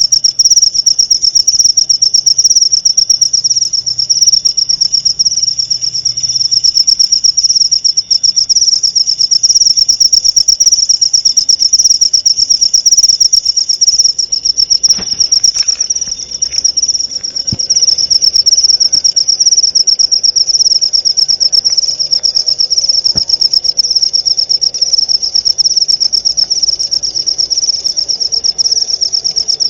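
Crickets (jangkrik) chirping continuously in a loud, shrill, rapidly pulsing trill.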